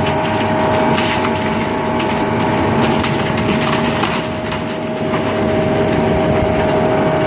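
A heavy demolition machine running steadily while crushing an old wooden building, with repeated cracking and splintering of timber.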